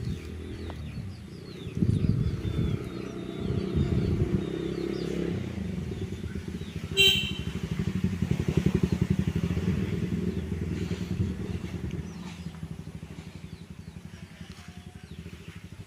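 A small engine running with a rapid, even pulse, growing louder a little before the middle and then fading away toward the end, as from a passing motorbike. Faint high chirps sound over it in the first few seconds, with one short sharp high sound about halfway through.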